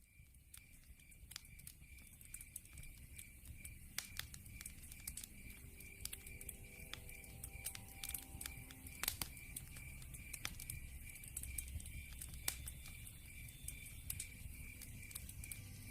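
Wood fire crackling with frequent sharp pops over a low rumble of burning logs, fading in over the first few seconds. A cricket chirps steadily throughout in an even pulse, about three chirps a second.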